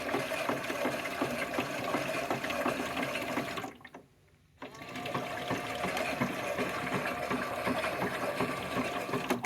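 Small motor of a Theo Klein Miele toy washing machine whirring as it turns a drum filled with water, running slowly under the water load. It stops for about a second a little before the middle, then starts again.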